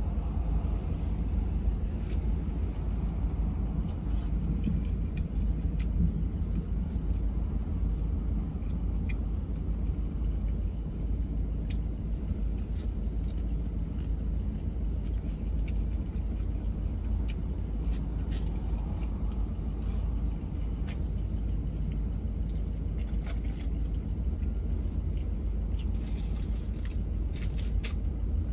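A car engine idling, a steady low rumble heard inside the cabin, with faint clicks of chewing over it.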